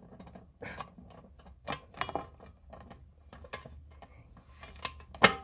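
Scattered clicks and knocks of an electric mixer being handled while a part is fitted into it. The loudest knock comes near the end, over a faint low hum.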